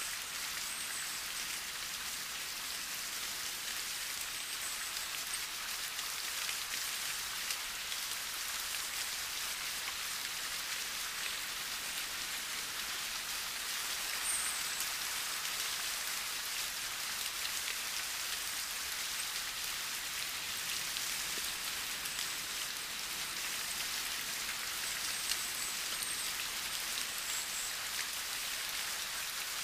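Gentle, steady rain falling on autumn leaves: an even patter with individual drops ticking through it.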